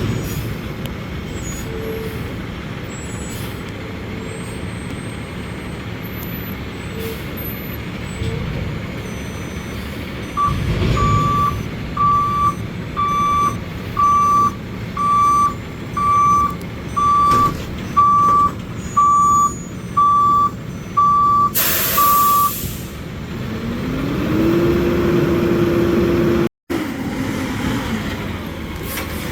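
Garbage truck backing up: its reversing alarm beeps about once a second for roughly twelve seconds over the running diesel engine, and a sharp air-brake hiss comes as the beeping stops. The engine then revs up to a steady pitch.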